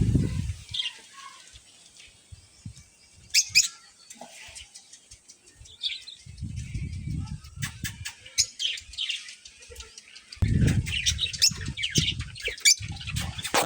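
Birds chirping in many short, high calls, with a few sharp clicks and stretches of low rumble coming and going.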